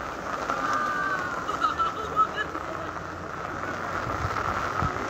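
Heavy rain falling steadily, with faint distant shouting rising and falling over it about half a second to two seconds in.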